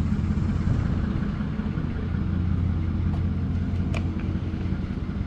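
An engine idling steadily with a low hum, with a couple of faint clicks about three and four seconds in.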